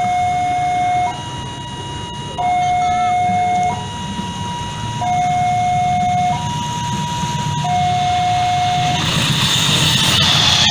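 Railway level-crossing warning alarm sounding a steady two-tone signal, a lower and a higher note alternating, each held about a second and a quarter, warning that a train is coming. Near the end the alarm fades under a rising rush of noise as the train approaches.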